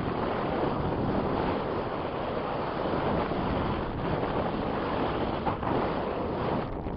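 Strong wind roaring and buffeting the microphone in flight, a steady, loud rush of air.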